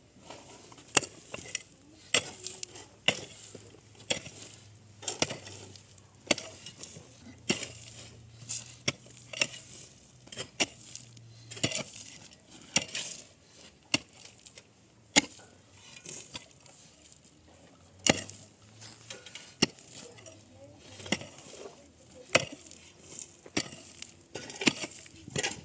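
Irregular clatter of hard objects knocking and clinking, about one or two sharp strikes a second, over a faint low hum that stops about halfway through.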